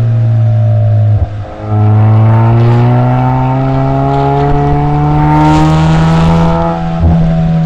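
Suzuki Swift Sport ZC33S's 1.4-litre turbocharged four-cylinder heard through a SACLAM aftermarket muffler with the stock catalytic converter: the throttle is lifted briefly about a second in, then the revs climb steadily for about five seconds before another short break near the end.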